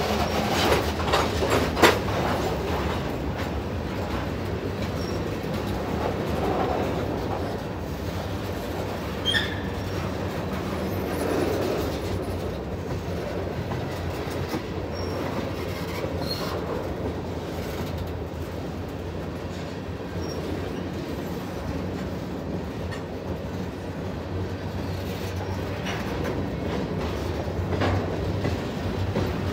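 Freight train cars, mostly covered hoppers, rolling past close by: a steady rumble of steel wheels on rail with clacking over the rail joints. The clacks are sharpest in the first two seconds, with a loud clank about two seconds in.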